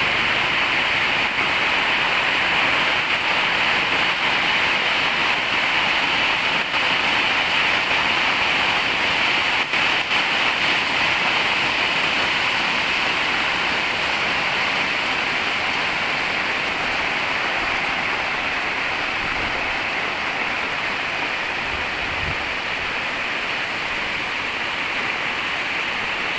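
Heavy rain pouring down steadily with no wind, a dense even hiss that eases very slightly toward the end.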